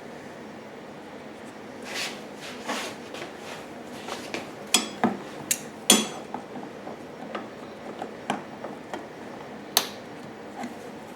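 Metal hand tools and parts clicking and clinking against one another in a string of sharp knocks, a couple of them ringing briefly, as work goes on at a hose clamp on a generator's fuel hose.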